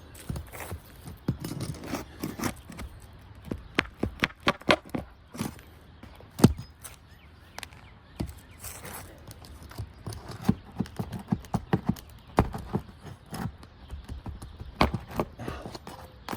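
Irregular knocks, taps and scrapes of a roofing nail-removal tool being worked under asphalt shingles to pull stuck nails, with a few louder single strikes.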